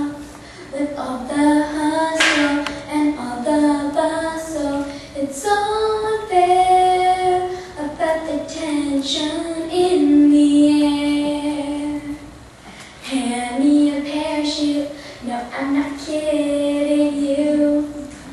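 A girl singing solo, holding long notes in phrases with short breaks for breath between them.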